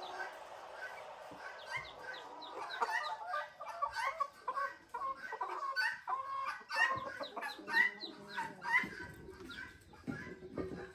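Chickens clucking, many short overlapping calls that grow busier a couple of seconds in and thin out near the end.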